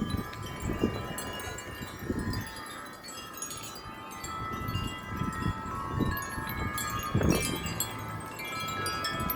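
Many wind chimes ringing together, a dense overlapping wash of sustained metallic tones, stirred by strong gusty wind. Low wind rumble buffets the microphone in repeated pulses, one of the strongest about seven seconds in.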